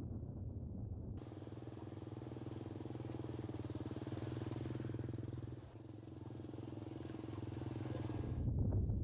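A small engine running steadily from about a second in until near the end, with low wind rumble on the microphone around it.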